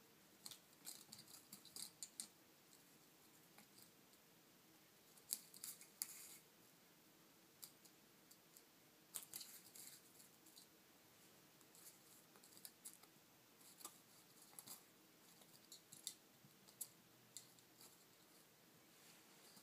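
Faint clusters of sharp, irregular clicks and scratchy ticks against a quiet background.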